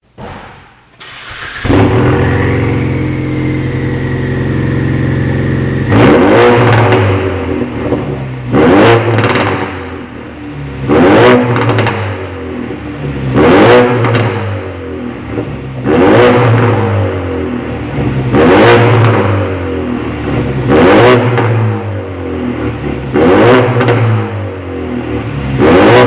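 Ford Mustang EcoBoost's 2.3-litre turbocharged four-cylinder, on a full aftermarket exhaust, starting up and idling, then blipped about nine times in a steady rhythm. Each rev rises and drops back through the deep exhaust.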